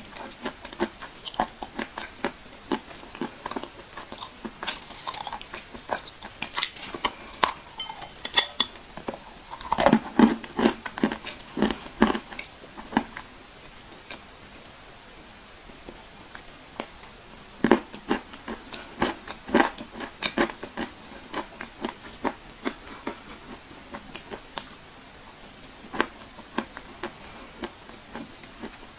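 Dry clay crunching: irregular sharp crackles and snaps, coming thick about ten seconds in and again around eighteen seconds.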